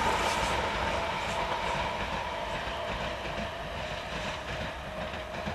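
Deutsche Bahn ICE high-speed electric train passing and drawing away: rolling noise over the rails with a steady whine, fading gradually.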